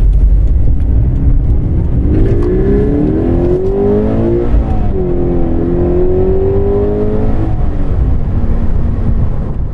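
Engine of a Toyota 86 / Scion FR-S-type sports coupe, a 2.0-litre flat-four, accelerating hard, heard from inside the cabin. The engine note climbs, drops with an upshift about five seconds in, then climbs again before easing off near the end.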